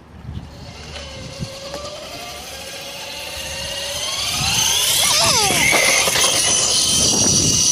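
Castle 2028 brushless motor on a modified Razor MX500 electric dirt bike whining as the bike accelerates, the pitch rising steadily for several seconds. It then holds a loud high whine.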